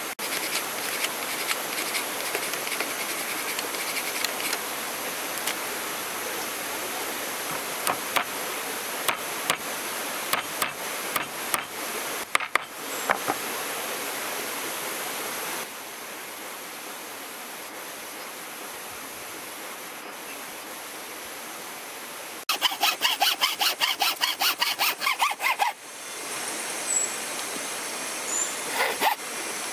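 Hand woodworking: scraping and light tapping on wood, with a run of quick hand-saw strokes, about five a second, lasting some three seconds about two-thirds of the way through.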